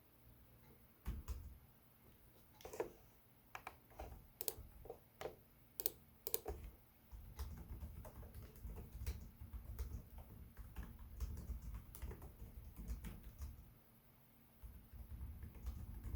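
Typing on a Lenovo Legion 5 Pro laptop keyboard: irregular key clicks, sparse at first, then a faster run of keystrokes with dull thumps, pausing for about a second near the end before starting again.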